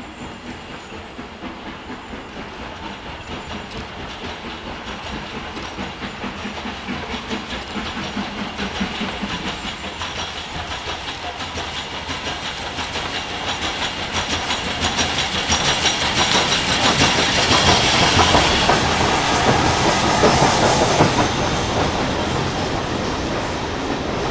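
Steam locomotive working a train towards the listener, its quick, regular exhaust beats and steam hiss growing steadily louder, with wheels clicking over the rail joints; it is loudest a few seconds before the end.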